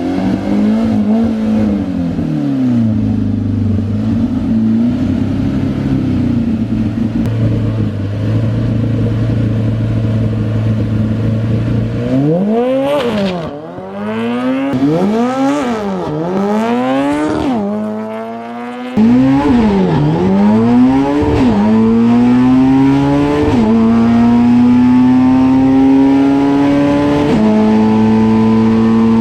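Honda K-series four-cylinder in a drag-racing pro truck: running at a steady speed, then revved up and down several times about a second apart, then launching hard about 19 s in and pulling up through the gears, the pitch climbing and dropping back at each upshift, with each gear held longer than the last.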